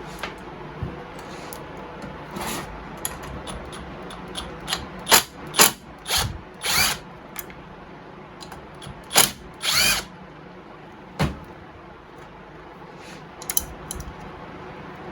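Power driver run in a series of short bursts, some rising in pitch as the motor spins up, between scattered light clicks and taps: backing out the bolts of a chainsaw muffler.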